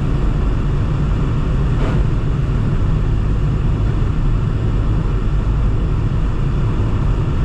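Vehicle driving, a steady low road and engine rumble.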